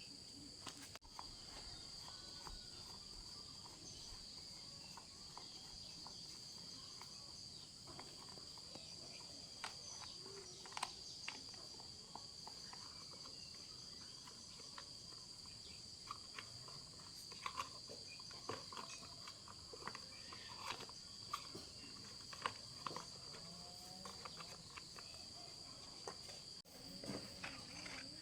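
Steady high-pitched chirring of insects, with scattered light clicks and knocks.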